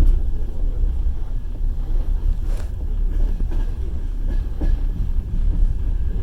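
Passenger train carriage rolling along the track, heard from inside: a steady low rumble with a couple of sharp knocks from the wheels, about two and a half and four and a half seconds in.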